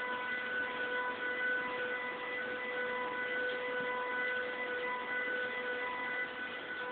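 A steady, siren-like droning hum held at one pitch with overtones, over a haze of background noise: the unexplained noise from the sky.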